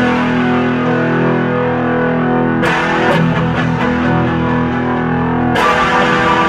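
Mexican-made Fender Stratocaster on its bridge pickup, played through an overdriven amp with delay: a distorted chord strummed and left ringing, with fresh strums about two and a half seconds in and again near the end.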